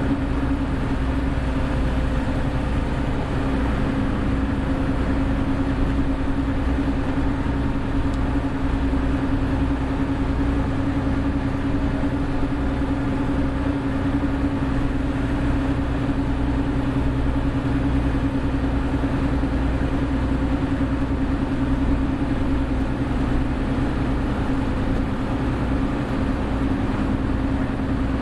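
Hino Blue Ribbon City hybrid city bus (BJG-HU8JLFP) running at a steady pace: an even drivetrain drone with a steady hum, and no gear change or change in pitch.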